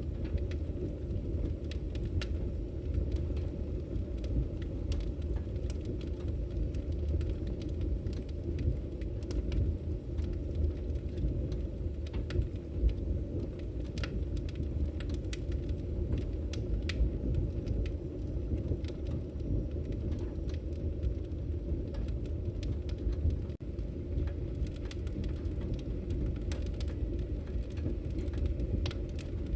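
Wood fire burning in a fireplace: a steady low rumble from the flames, with frequent irregular sharp crackles and pops.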